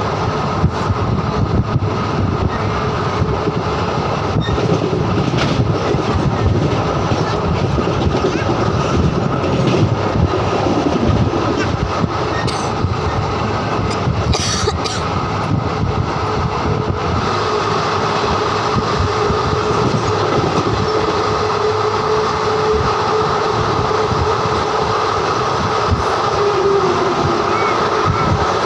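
A train running on the rails: a steady rumble of wheels on track with scattered clicks, and a steady whine that grows clearer about halfway through.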